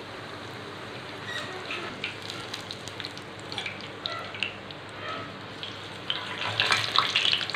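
Breaded chicken patty shallow-frying in hot oil on a low flame: a steady soft sizzle with scattered crackles. About six seconds in the sizzle grows louder and busier as the patty is turned over in the oil with tongs and a spatula.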